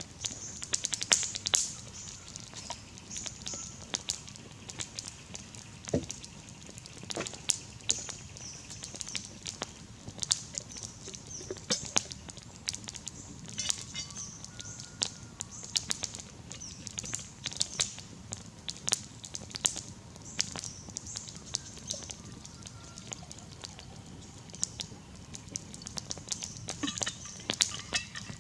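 Campfire crackling, with irregular sharp cracks and pops, a few louder than the rest, over a faint steady high-pitched hiss.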